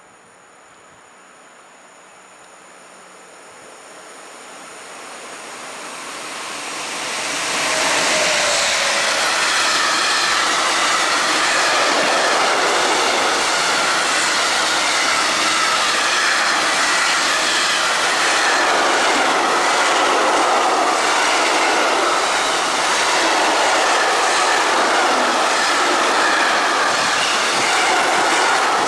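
A freight train hauled by a Newag Dragon E6ACT electric locomotive approaches, growing louder over about seven seconds. Then a long string of tank wagons rolls past at speed, with steady loud wheel-on-rail noise and clatter.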